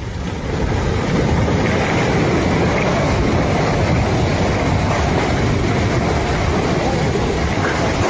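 Avalanche of snow pouring downhill: a loud, steady rumble that swells within the first second.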